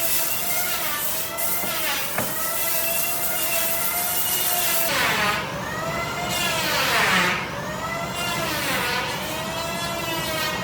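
A power tool's motor running in a woodshop, its pitch dipping and recovering several times through the middle as it works into the wood.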